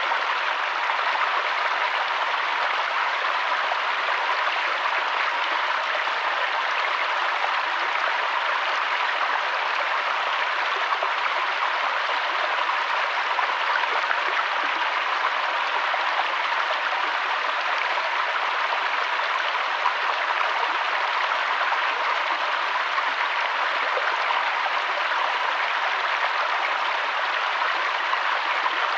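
Steady rushing water of a mountain waterfall and stream, an even, unbroken splashing roar.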